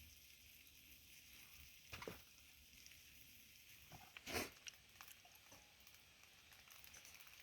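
Near silence: faint steady hiss, with two brief soft knocks, about two seconds in and about four and a half seconds in.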